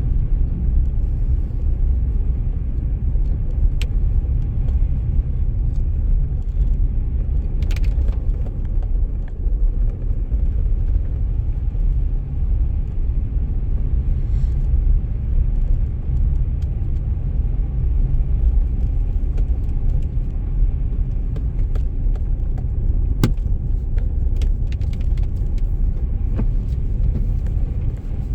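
Car driving through snow: a steady low rumble of road and engine noise, with a few brief clicks or rattles.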